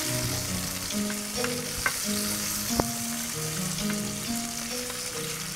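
Onion, tomato and celery frying in palm oil in a pan, a steady sizzle as they are stirred with a wooden spoon that knocks against the pan a couple of times. Soft background music with a stepping melody plays underneath.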